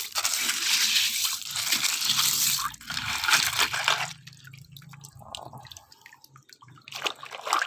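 Hands digging into a pile of sand, grains scraping and pouring for about four seconds, then quieter scattered crunches.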